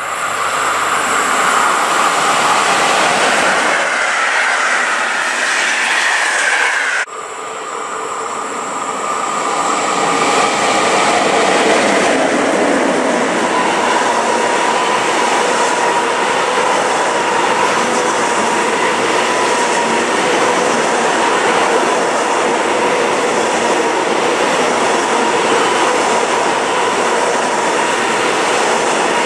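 Freight train passing through a station. First the locomotive approaches, growing louder, with a whine rising in pitch. After an abrupt break about seven seconds in, a long line of container flat wagons rolls by with a steady rushing wheel noise and a faint steady tone.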